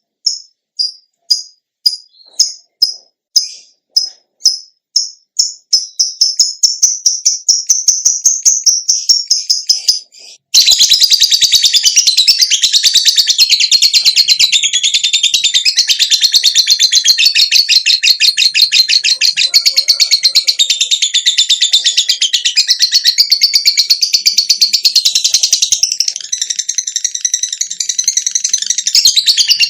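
Songbird song: a high note repeated, speeding up into a fast trill over about ten seconds, then an abrupt switch to a dense, continuous high-pitched warbling song.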